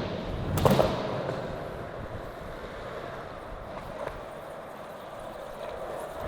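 A skateboard cracks down on flat ground once, under a second in, then its wheels roll on with a steady rumble that slowly fades.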